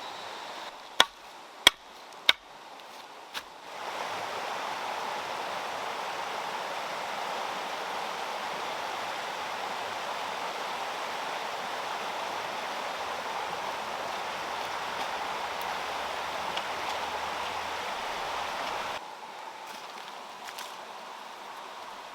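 Three sharp knocks in quick succession about a second in, then water rushing steadily in a stream or small waterfall, which cuts off abruptly near the end.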